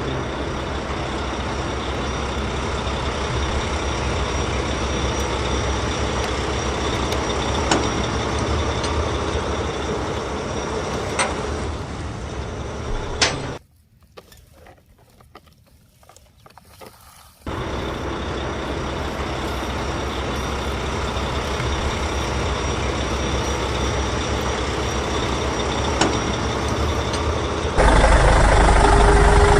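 Steady vehicle engine noise that cuts out abruptly for about four seconds midway, then returns and gets louder near the end.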